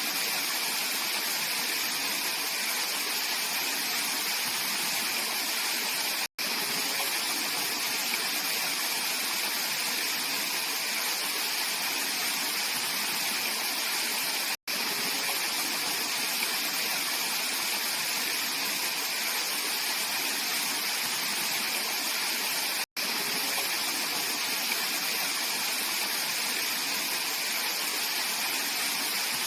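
Mountain valley stream rushing steadily over rocks, a clear, even splashing and burbling of water. It is broken by three momentary dropouts to silence, about eight seconds apart.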